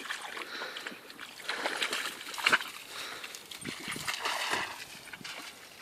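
Irregular splashing and sloshing through shallow water, with a few sharper splashes about two and a half seconds in.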